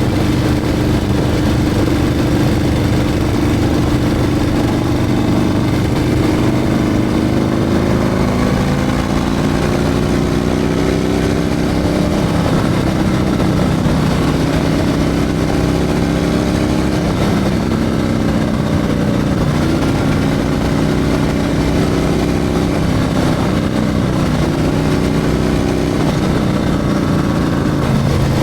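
Harley-Davidson Milwaukee-Eight 114 V-twin with a Screaming Eagle 447 torque cam running under way. The engine pitch climbs and drops back several times as the rider works the throttle and gears.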